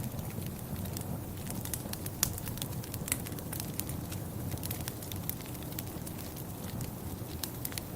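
Wood fire crackling: scattered sharp pops and snaps over a low steady rumble, with one louder pop a little over two seconds in.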